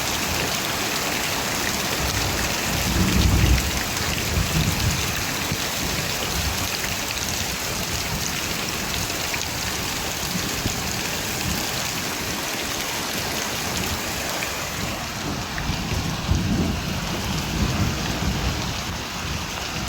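Steady rain falling, with low rumbles of thunder about three seconds in and again near the end.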